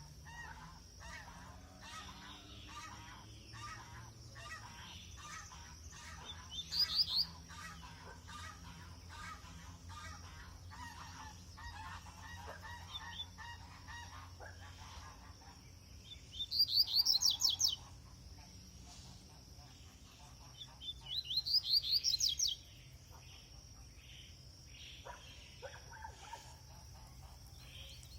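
Double-collared seedeater (coleiro) singing in the open: three loud bursts of rapid, high, falling notes, about 7 s, 16 s and 21 s in, over steady fainter chirping of other birds.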